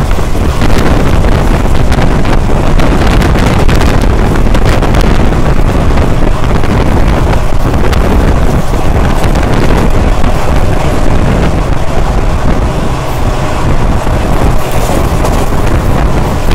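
Passenger train running at speed, heard from aboard: a steady rumble of the coach on the track, heavily buffeted by wind on the microphone.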